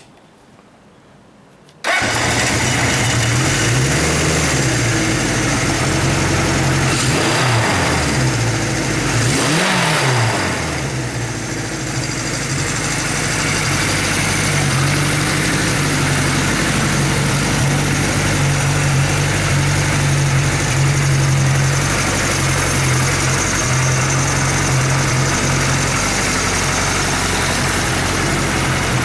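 Kawasaki Z1 Z900-A4's air-cooled inline-four engine catching and starting about two seconds in. It is revved up and down a few times a few seconds later, then settles to a steady idle.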